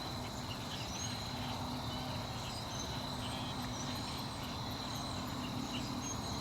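Outdoor nature ambience: a steady high-pitched insect trill with faint short bird chirps scattered over it and a low hum underneath.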